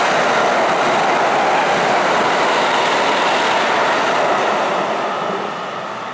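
Kintetsu electric commuter train running past the platform close by: a loud, steady rush of wheel and running noise. It fades about five seconds in as the last cars go by.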